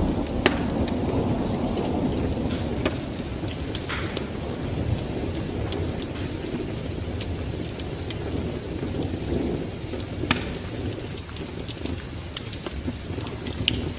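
Wood fire burning in a fireplace: a steady low rumble of flames with scattered sharp crackles and pops, the loudest about half a second, three, ten and twelve seconds in.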